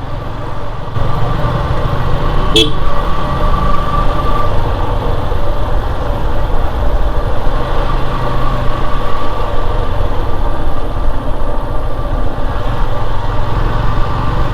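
Yamaha FZS single-cylinder motorcycle engine running on the move, with steady road and wind rumble. A sharp click about two and a half seconds in.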